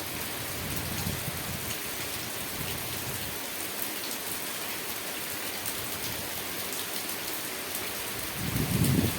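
Steady rain falling, an even hiss with faint scattered drop ticks. Near the end a low rumble swells up and becomes the loudest sound.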